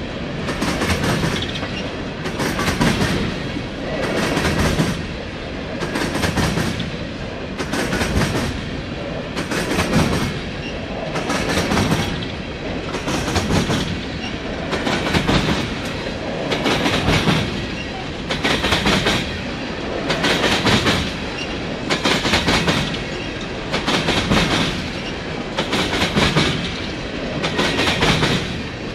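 Empty coal train rolling past, its cars' wheels clacking over the track in a steady pattern that swells about every two seconds as each car goes by.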